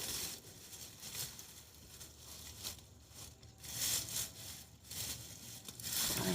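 Rustling, crinkling and scraping of sweet potato vines, leaves and soil as a sweet potato is dug out by hand, in irregular bursts, loudest about four seconds in and near the end.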